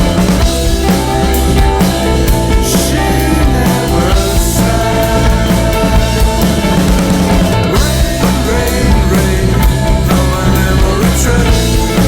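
Rock band playing at full volume: guitars, bass and drum kit with steady cymbal hits.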